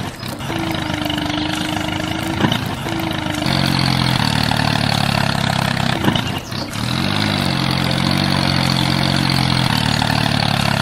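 Small engine running steadily. About three and a half seconds in it gets louder; near six and a half seconds it dips briefly, then picks back up with a rising note.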